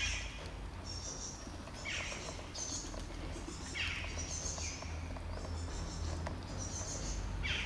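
Birds calling nearby, with a quick downward-sweeping call repeated every couple of seconds among high chirps, over a steady low rumble. Faint soft ticks of kittens eating wet food sit underneath.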